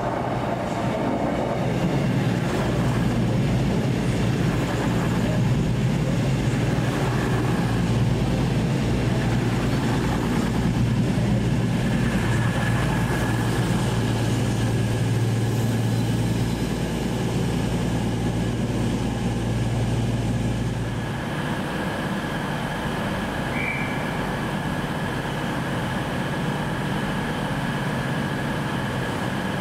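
A three-car TransPennine Express class 185 diesel multiple unit running at the platform, with a steady engine drone and wheel noise. A thin, steady high squeal comes in about halfway through. The engine drone drops away about two-thirds of the way in.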